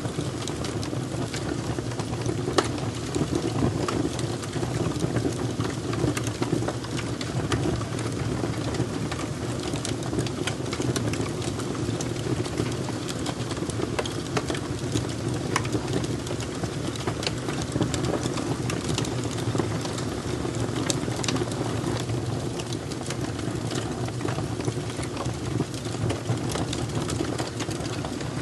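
Fire crackling steadily, with many small sharp pops and snaps over a continuous low rumble of burning.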